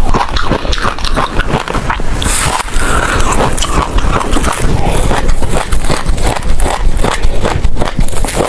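Close-miked chewing of passion fruit pulp, the seeds cracking between the teeth in a dense, irregular run of crisp crunches and pops.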